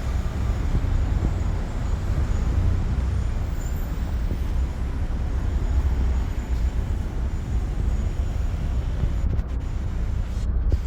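Steady low rumble of vehicle noise, uneven and without distinct events.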